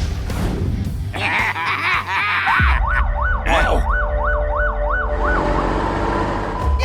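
Emergency vehicle siren rising and falling quickly, about three cycles a second, starting a few seconds in and stopping shortly before the end, over a steady low hum.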